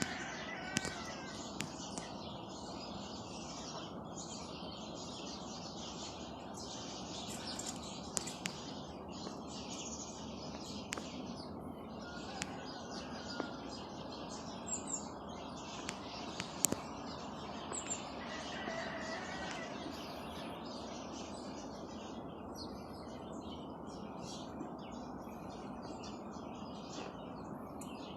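Many small birds chirping and twittering at once, short overlapping calls in a continuous chatter.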